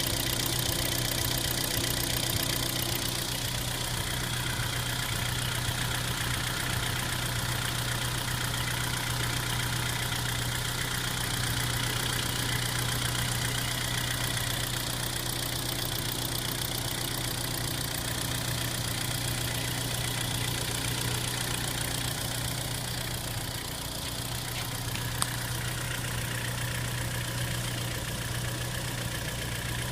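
Engine idling steadily on a cold engine, started at about 12 °C. A single sharp click sounds about 25 seconds in.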